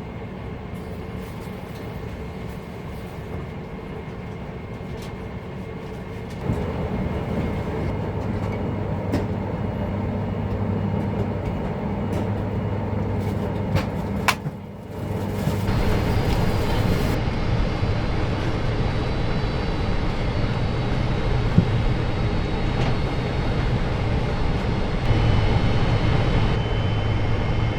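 Boeing 747-400 cabin noise on the ground: a steady engine rumble and hum heard from inside the cabin. It gets louder about six seconds in, drops out briefly about halfway, then comes back louder.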